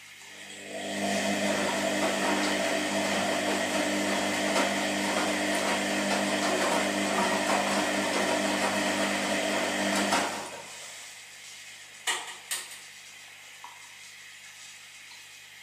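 Washing machine motor turning the drum with a steady whirring hum for about nine seconds, then winding down and stopping, as in the stop-start turning of a wash cycle. Two sharp clicks come a couple of seconds after it stops, over a faint steady hum.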